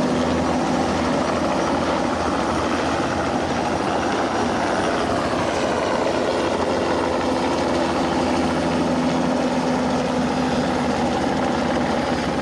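Turbine helicopter's engine and rotor running steadily: a constant drone with a few fixed tones and no change in pitch.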